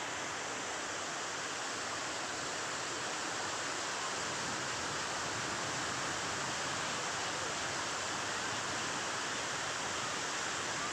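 Waterfall: water crashing down in a steady, unbroken rush.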